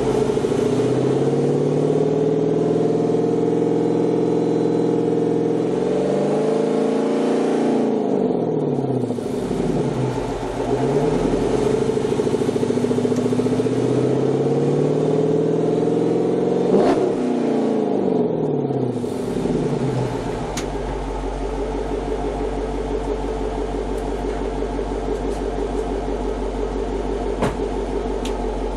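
2009 Dodge Challenger R/T's 5.7 L HEMI V8 through a Corsa Xtreme cat-back exhaust and JBA shorty headers, revved up and held twice, dropping back between, then settling to a steady idle about two-thirds of the way through.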